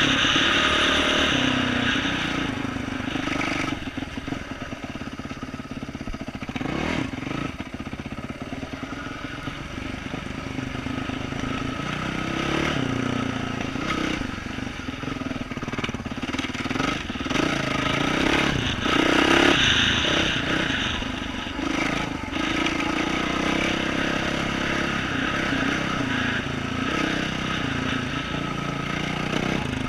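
2012 Yamaha YZ450F four-stroke single-cylinder engine, fitted with an aftermarket exhaust, running under load as the dirt bike is ridden along a trail. The engine note rises and falls with the throttle and is loudest about two-thirds of the way through.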